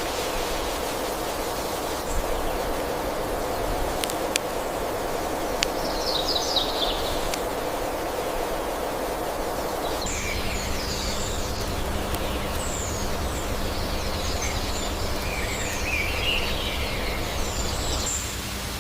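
Steady outdoor background noise with scattered high bird chirps. There are a few sharp clicks about four to six seconds in, and a low steady hum joins from about ten seconds.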